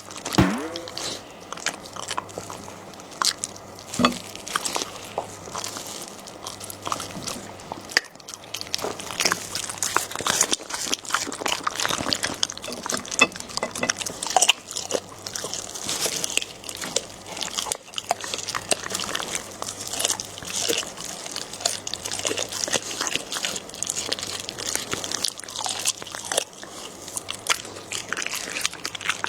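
A Shiba Inu chewing and crunching raw crocodile tail, with many irregular bone-cracking crunches and bites.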